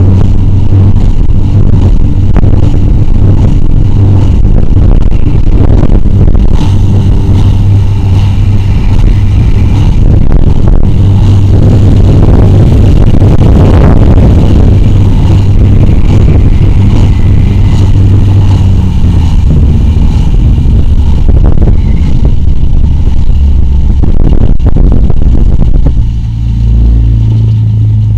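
A 9.9 hp four-stroke outboard running at full throttle, pushing a loaded 12-foot aluminium boat on a top-speed run, with a steady rush of noise over its hum. Near the end the engine note drops as the throttle eases off.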